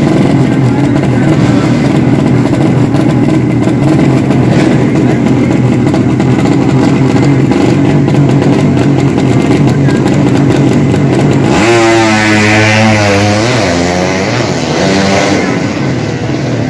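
Drag racing motorcycle engines running loudly. About eleven seconds in, one engine's note stands out clearly and changes pitch as it revs and accelerates, then fades.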